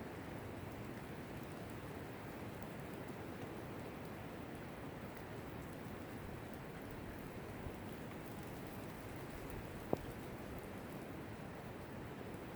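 Steady rainfall, an even hiss of drops. One sharp tap stands out near the end.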